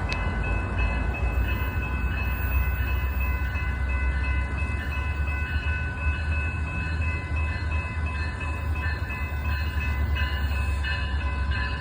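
A train running past with a steady low rumble and several faint, steady high tones above it.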